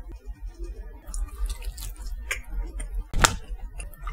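Small clicking mouth and handling sounds as a sheet of latiao, a chewy spicy wheat-gluten snack, is bitten and chewed, with one sharp click about three seconds in.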